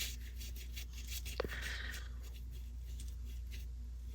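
Acrylic paintbrush stroking over gesso-primed mixed media paper: soft, brief scratchy rubs, with one small tap about a second and a half in.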